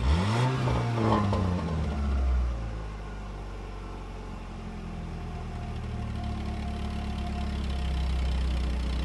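Vehicle engine revving briefly, its pitch rising then falling over the first two seconds or so, then settling into a steady idle.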